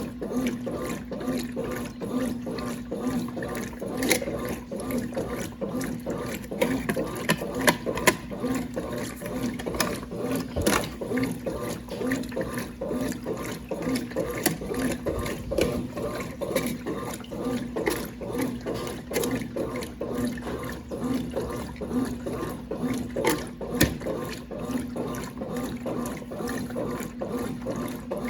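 Brastemp Clean 5 kg washing machine running with water sloshing inside its tub, a regular low pulse repeating a little more than once a second, with scattered small clicks.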